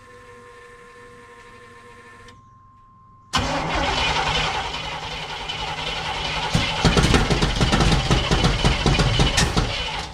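A steady tone sounds for about two seconds, then the starter cranks the Chevrolet square-body pickup's 454 big-block V8 for about seven seconds. The cranking turns heavier and more rhythmic about halfway through, but the engine does not start: the distributor has been put in backwards.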